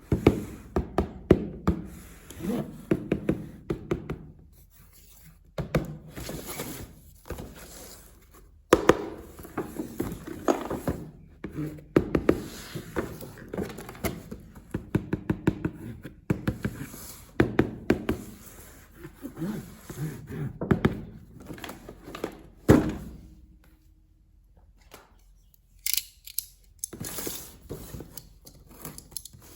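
Hands unboxing and handling plastic toy parts and packaging: a busy run of clicks, knocks and thunks with rustling and rubbing between, easing off briefly about two-thirds of the way through.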